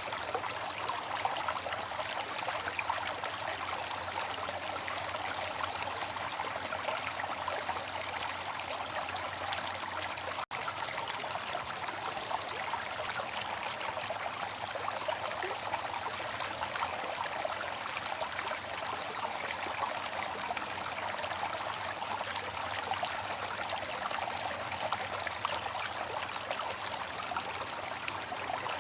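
Water fountain splashing and trickling steadily, with one momentary dropout about ten seconds in.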